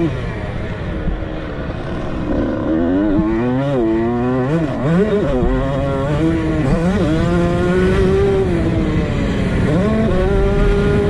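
Two-stroke dirt bike engine revving up and down as it is ridden, its pitch rising and falling every second or so, then holding a steadier high rev near the end.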